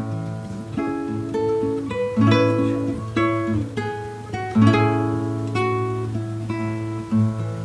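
Solo classical guitar played fingerstyle: a plucked melody over sustained bass notes, with fuller chords struck at a few points.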